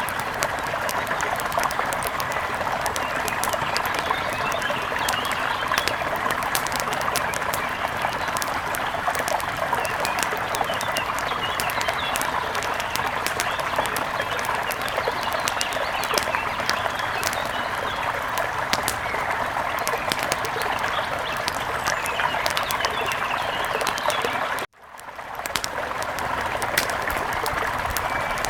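Mountain river flowing with a steady rush and fine splashing, with small bird chirps over it. The sound cuts out briefly about 25 seconds in, then comes back.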